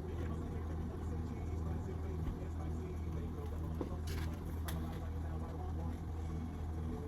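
Steady low hum of an idling car engine, with a couple of brief faint clicks about four seconds in.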